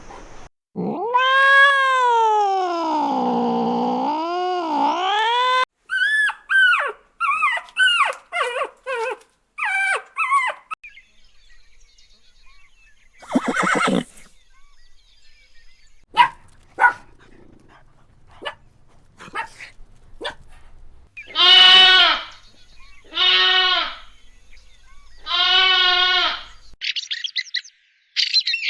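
A series of different animal calls: first a long call that swings up and down in pitch for about five seconds, then a quick run of short calls. Scattered clicks follow, and near the end come three separate calls of about a second each, roughly two seconds apart.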